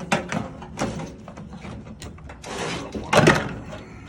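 Metal parts of a gutted microwave clanking and scraping as they are handled, with a short scrape about two and a half seconds in and the loudest clatter just after.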